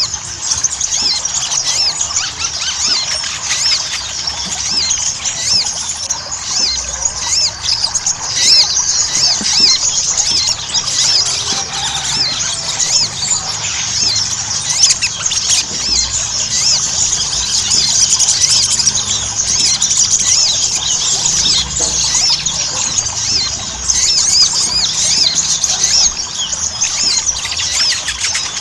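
Sogon (sogok ontong) song: a rapid, unbroken stream of short, high-pitched chirps and twitters.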